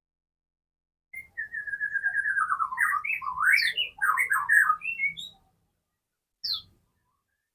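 White-rumped shama whistling: a long falling note, then a quick run of notes that swoop up and down, about four seconds in all, with one short high note near the end.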